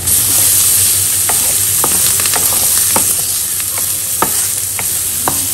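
Soaked, crushed chana dal sizzling in hot oil in a ceramic-coated frying pan while a wooden spatula stirs and spreads it, with scattered light scrapes and taps. The sizzle jumps up at the very start as the stirring begins.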